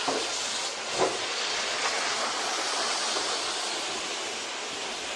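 A steady hiss, with two short knocks: one at the start and one about a second in.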